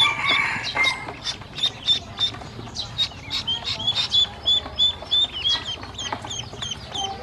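A flock of baby ducklings peeping: many short, high chirps, one after another and overlapping, with a few quick clicks among them.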